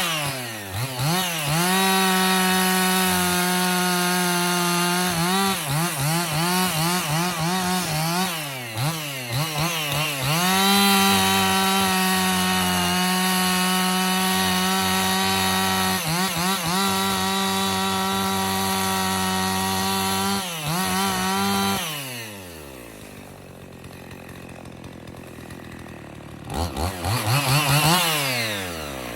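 Husqvarna 55 two-stroke chainsaw bucking a log: the engine holds a steady high pitch through long cuts, with quick revs up and down between them. About three-quarters of the way through it drops to idle, then revs back up near the end.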